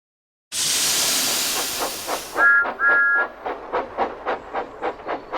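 Steam locomotive sound effect. A loud hiss of released steam comes first, then two short toots on a two-note whistle. Steady chuffing, about three puffs a second, starts as the engine gets under way.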